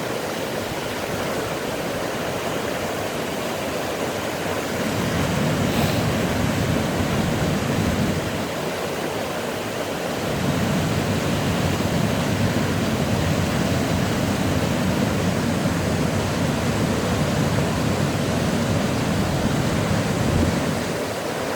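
Waterfall rushing in a steady, full hiss. A deeper rumble swells in about five seconds in, drops away near eight seconds, and returns from about ten seconds until just before the end.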